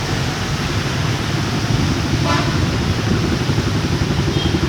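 Steady low vehicle engine rumble with one short horn toot a little past halfway.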